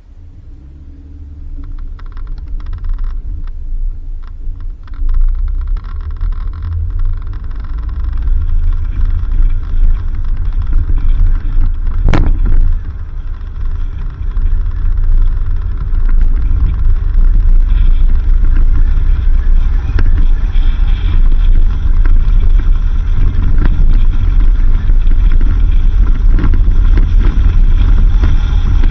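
Vehicle driving on a dirt road: a heavy low rumble that grows louder over the first half and then holds steady, with a sharp knock about twelve seconds in.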